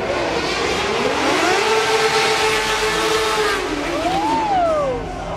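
A stunt-show vehicle's engine revving hard: the pitch climbs, holds, then rises and falls sharply about four seconds in, over a loud hiss.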